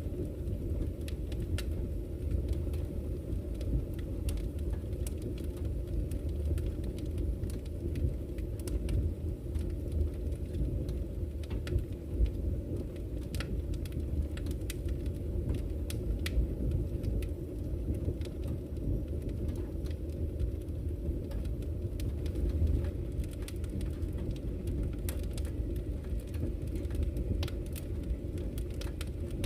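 Campfire crackling, with frequent sharp irregular pops and snaps, over a steady low rush of flowing river water.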